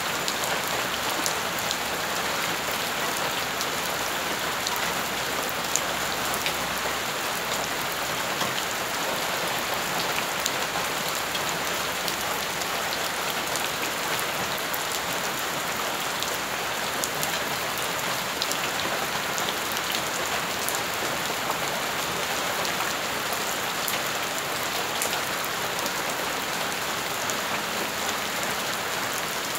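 Steady rain falling on wet ground and puddles, with many individual drops splashing as small sharp ticks over the even hiss.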